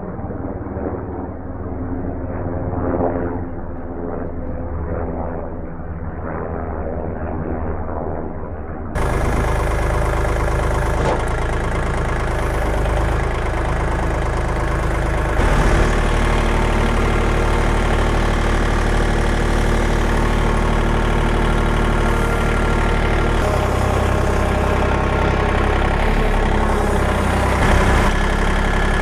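An engine running steadily, muffled at first. About nine seconds in it abruptly turns louder and fuller, then keeps running at an even speed.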